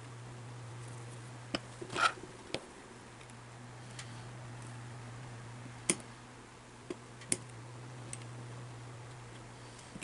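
Scattered light clicks and taps, about nine in all, the loudest about two seconds in, from small parts and tools being handled while a small electric motor is taken apart, over a steady low hum.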